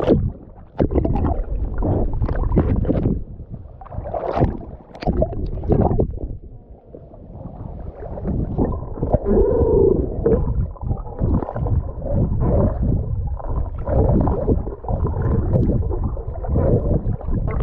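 River water rushing and splashing around an inflatable raft, in irregular surges, with wind buffeting the microphone.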